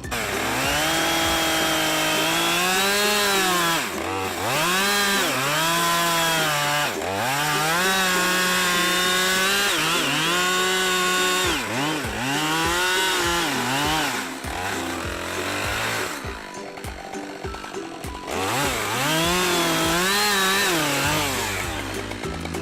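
Husqvarna two-stroke chainsaw running at high revs, its pitch repeatedly rising and sagging with brief drops in speed, and a longer lull about two-thirds of the way through before it picks up again.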